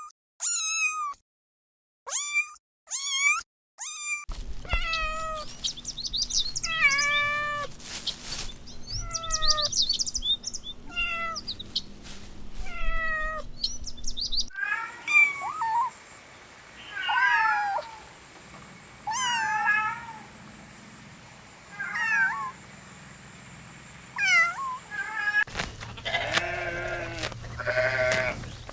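Kittens meowing: many short, high mews, one after another, in several stretches that break off abruptly.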